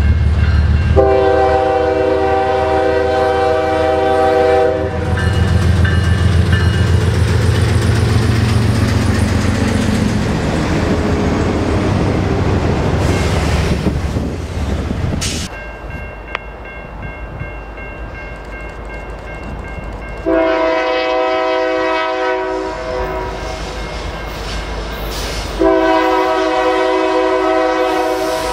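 Diesel freight locomotive air horn sounding one long chord, then the deep rumble of the locomotive passing and the rattle and clack of double-stack container cars rolling by. After an abrupt change in the sound, a second diesel freight locomotive sounds its horn twice on approach, the second blast starting near the end.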